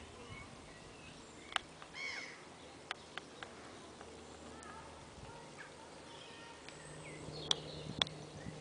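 Small birds chirping in the riverside trees over quiet outdoor ambience. A few sharp clicks and ticks are scattered through it, the loudest two near the end.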